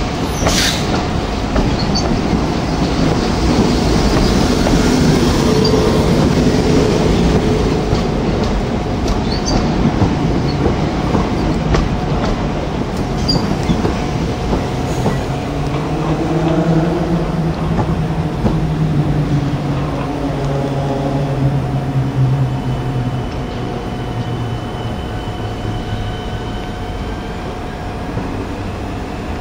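Southern electric multiple unit running along the platform past the listener, its wheels rumbling and clicking over the track joints. A humming tone rises out of the noise partway through, and the sound thins out as the last coaches go by, leaving faint high wheel squeal near the end.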